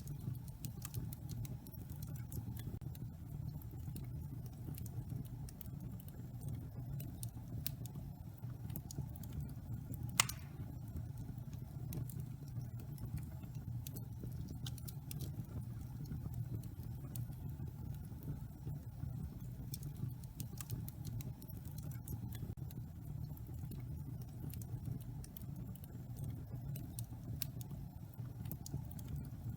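Wood fire burning in a fireplace: a steady low rumble with scattered small crackles, and one louder pop about ten seconds in.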